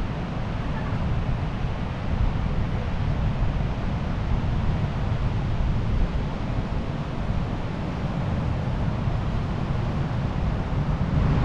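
Ocean surf washing on the shore, with wind buffeting the microphone in a steady rumble.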